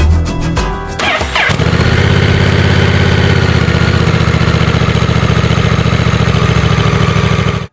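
Music gives way about a second in to a Honda Hawk motorcycle engine starting, then idling steadily. It cuts off abruptly at the end.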